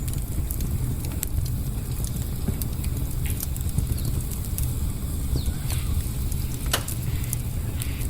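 Wood campfire crackling: irregular sharp pops and snaps over a steady low rumble, with one louder pop near the end.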